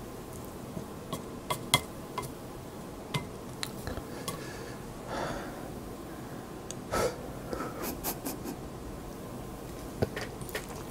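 Close-miked eating sounds of a person chewing instant yakisoba noodles: scattered wet mouth clicks and smacks, with short breathy rushes about five and seven seconds in.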